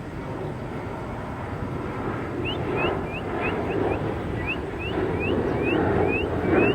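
A songbird sings a fast run of short, rising chirps, about three a second, starting a couple of seconds in. Underneath is a steady low rumble.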